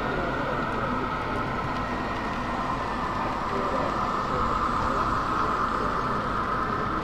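Steady exhibition-hall hubbub: a murmur of many voices with a model train running on its layout.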